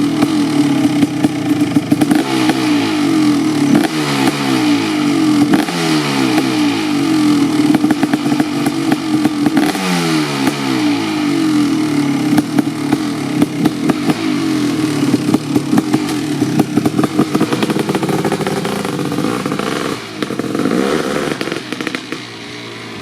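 Kawasaki KX500's 500cc single-cylinder two-stroke engine being revved in repeated throttle blips, the revs falling back after each one, then running lower and quietening near the end.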